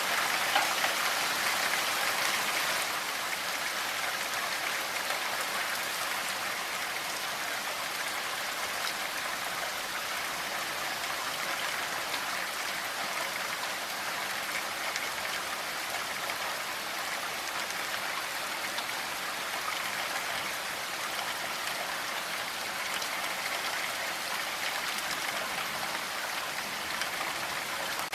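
Steady rain falling, a dense even patter of drops, a little louder for the first few seconds.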